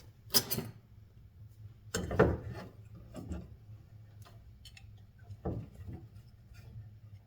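Small metal fan-motor parts being handled and fitted together by hand: a few separate clicks and knocks with some rubbing and scraping in between.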